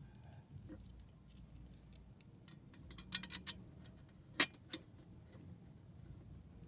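Light metallic clicks and clinks from an exhaust header and its bolts being handled and fitted to a small-block Chevy 350's cylinder head: a quick cluster about three seconds in, then one sharper clink about a second later and a smaller one just after.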